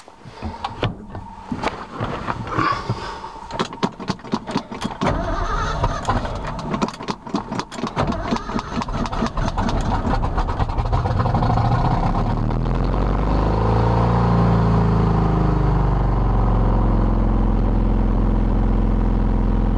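Old carbureted truck engine cranking on the starter from cold after gasoline has been poured into the carburetor, sputtering and catching about a quarter of the way in. It then runs steadily, with a brief rev that settles.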